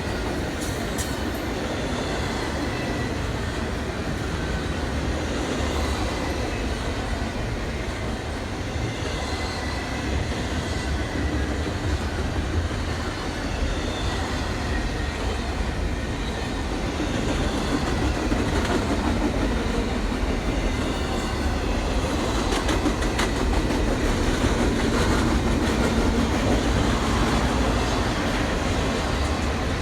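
A train rolling past on the tracks, its steel wheels rumbling and clicking over the rail joints, growing a little louder after the middle.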